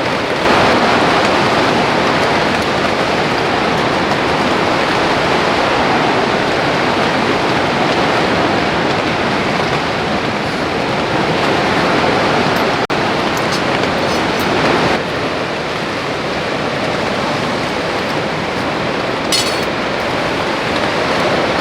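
Heavy rain and wind of a mountain rainstorm: a loud, steady rushing hiss that eases slightly about fifteen seconds in.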